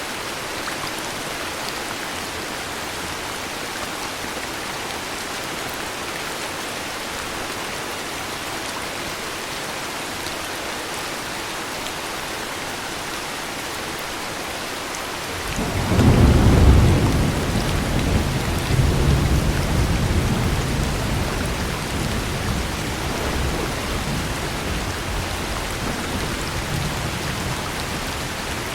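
Steady heavy rain, then about halfway through a thunderclap breaks in suddenly and rolls on as a long rumble, slowly fading under the rain.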